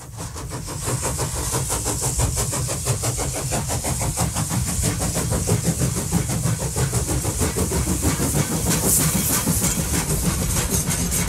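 A train running steadily, with a rapid, even pulse over a steady hiss; it fades in at the start.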